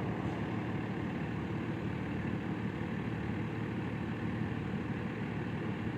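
Steady distant rumble of a claw truck's heavy engine running as the boom works, over an even background rush.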